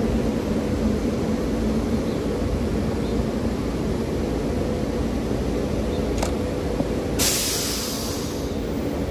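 SEPTA Silverliner IV electric multiple-unit train running away from the platform: a steady rumble with a low hum that slowly fades as it recedes. A short burst of hiss comes in about seven seconds in.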